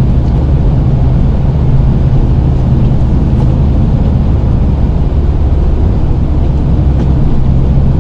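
Snow-plow truck engine running steadily with a low, even drone while the truck pushes snow with its V-blade plow.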